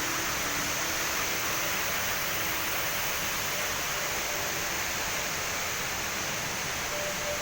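Steady rush of falling water from Jewel Changi's Rain Vortex, the world's tallest indoor waterfall, pouring into its pool.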